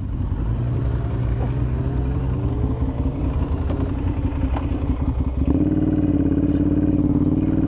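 Ducati L-twin motorcycle engine with a Termignoni exhaust running, its note stepping up in pitch and loudness about five and a half seconds in as the bike accelerates.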